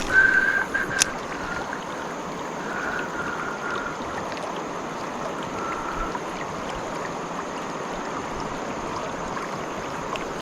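River water running over shoals, a steady rushing hiss. A thin high whine comes and goes a few times in the first six seconds, with a click about a second in.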